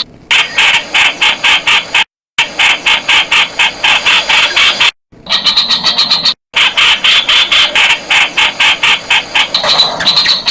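Streak-eared bulbul calling: a fast, even series of sharp notes, about seven a second. The sound cuts out to dead silence three times for a moment.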